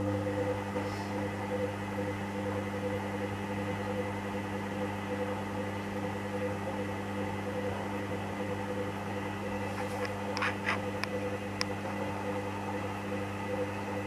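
Hoover Dynamic washing machine running its main wash: the motor hums steadily as the drum turns. A few short clicks come about ten to twelve seconds in.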